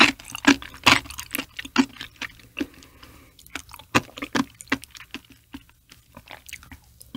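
Close-miked chewing of raw liver: wet mouth sounds and lip smacks with many sharp clicks. They come thickest in the first two seconds and thin out in the second half.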